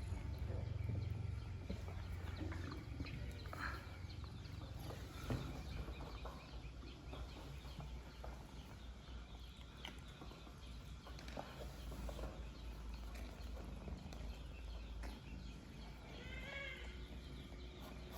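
Faint animal calls over a low steady hum with scattered small taps; one short, rising-and-falling call stands out near the end.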